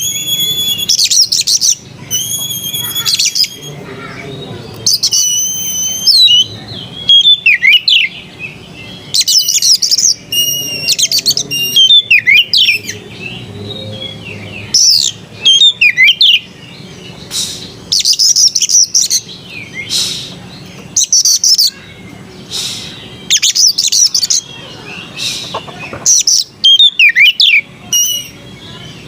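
Oriental magpie-robin (kacer) singing a loud, varied song: whistled notes, sweeping slurs and rapid trills in phrases repeated every second or two with short pauses between.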